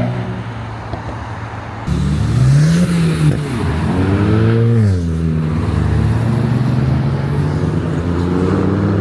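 A car engine pulling away under acceleration: it starts loudly about two seconds in, climbs in pitch and drops back twice like gear changes, then carries on as a steadier, slowly rising note.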